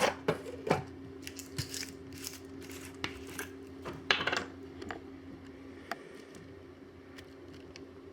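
Scattered small clicks and knocks of a buffalo sauce bottle being handled while sauce is poured over chicken in a crockpot, with a short cluster of knocks about four seconds in. A steady low hum runs underneath.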